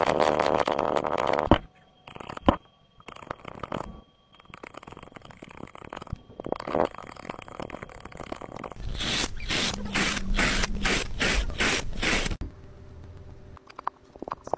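Slime being squeezed and worked by hand, with wet squelching and sharp clicks and pops. The first loud squish stops abruptly after about a second and a half. In the second half comes a quick run of regular strokes, about three a second.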